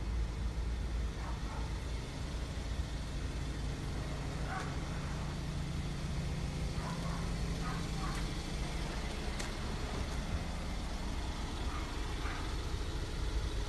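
BMW 320i Cabrio's 2.0-litre four-cylinder petrol engine idling steadily, a low even hum.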